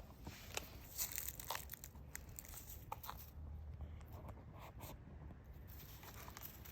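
A cat chewing and tearing at a shishamo smelt: irregular small crunches and crackles, several a second at times.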